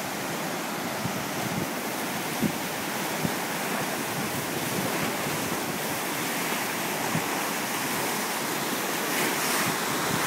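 Steady rushing of the Kumano River in flood, swollen by days of heavy typhoon rain, with wind knocking on the microphone a few times.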